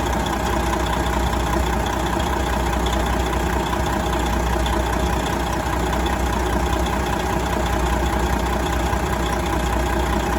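1999 Detroit Diesel Series 60 12.7-litre inline-six diesel engine idling steadily.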